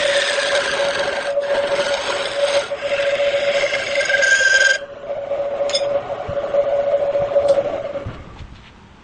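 Wood lathe running with a steady hum while a hand-held turning tool scrapes the spinning wood. The cutting stops abruptly just under five seconds in, and the lathe's hum then dies away near the end as it stops.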